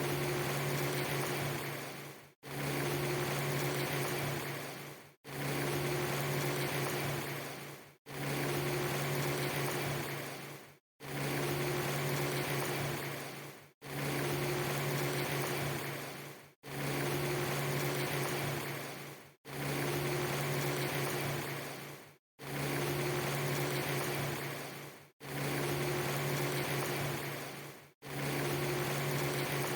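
A steady hiss with a low hum under it, a short recording looped over and over: it cuts out to silence for a moment about every three seconds and starts again.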